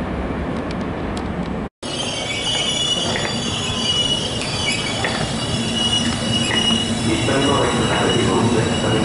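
Trenitalia Intercity passenger coaches rolling past close by, their steel wheels squealing steadily over a rumble and rattle from the running gear. A more distant train rumble comes first, broken by a short gap in the sound about two seconds in.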